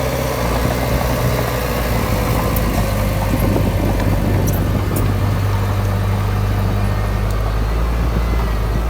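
Heavy earthmoving machine's diesel engine running steadily with a deep, even drone, most likely the bulldozer working. A few light clicks come in the middle.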